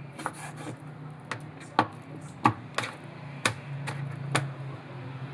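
Kitchen knife cutting food on a cutting board: about seven sharp, irregular knocks of the blade against the board.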